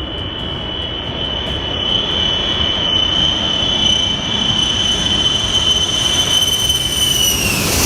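Jet airliner engines at takeoff power: a loud, steady high whine over a broad rumble. The whine falls in pitch near the end.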